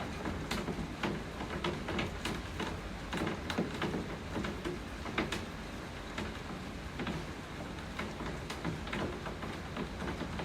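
Steady rain hiss with irregular drops tapping sharply on a nearby surface, several a second.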